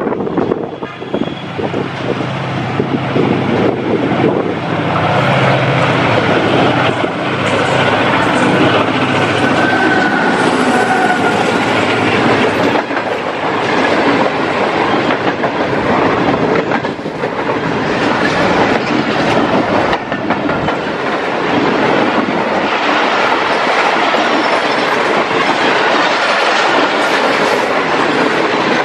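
ZCU-30 diesel-electric locomotive passing at speed at close range, then a long rake of passenger coaches rushing by, their wheels clattering on the rails in a continuous fast clickety-clack.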